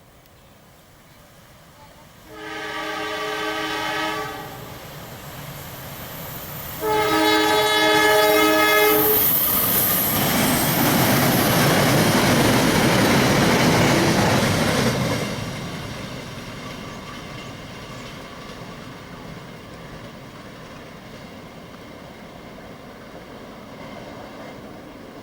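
A train's locomotive horn sounds twice, each blast about two seconds long. Then the train passes close by, loud for about five seconds, and fades away.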